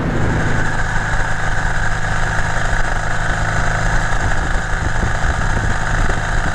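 Car engine running steadily while driving at a constant speed, holding an even pitch with road noise and no revving.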